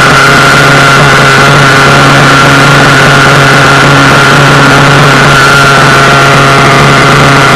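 RC buggy's nitro engine idling steadily on its first run after a rebuild, with a steady high whine over a low hum.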